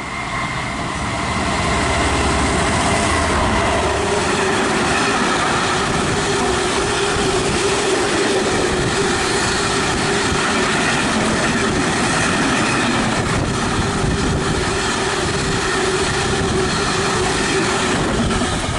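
Freight train hauled by a Class 66 diesel locomotive passing through at speed: a loud, steady rumble of wheels and wagons on the rails with a steady ringing tone over it, building over the first couple of seconds and easing off near the end.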